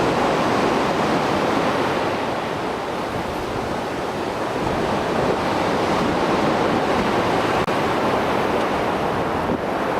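Mediterranean surf after a storm: waves breaking and washing over the shore in a continuous rushing roar, easing slightly a few seconds in.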